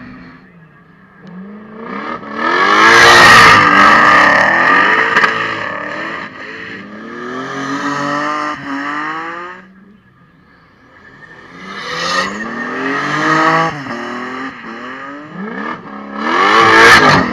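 Drift cars passing under hard throttle, engines revving up and falling back over and over as they slide, with tyres screeching. The two loudest passes come about two seconds in and near the end, with a lull in between.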